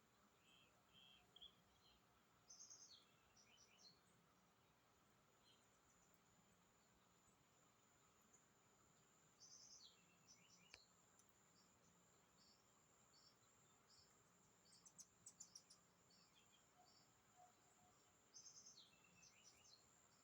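Faint chirps of small birds in short quick clusters, several times over, above a steady thin high-pitched tone.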